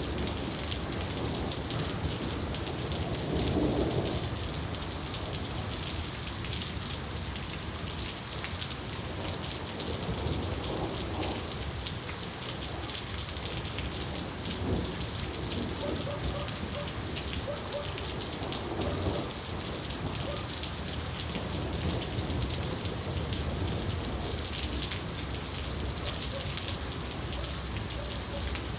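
Steady rain falling, with low rumbles of thunder; the loudest swell comes about three to four seconds in.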